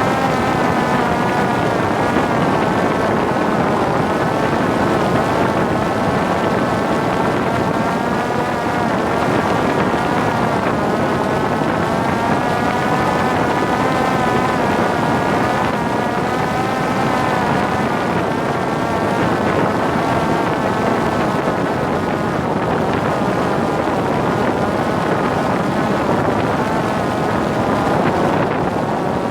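Parrot Disco fixed-wing drone's electric pusher propeller whining steadily in flight, its pitch wavering slightly, with wind rushing over the microphone.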